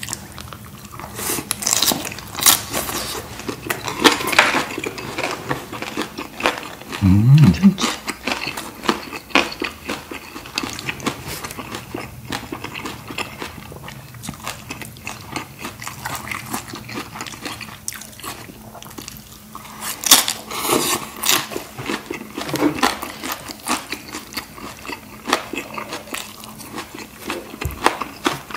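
Close-up eating sounds: chewing and crunching of fresh shredded cabbage salad and a pan-fried dumpling, with wet mouth sounds and chopsticks clicking on the dishes. A brief low hum comes about seven seconds in.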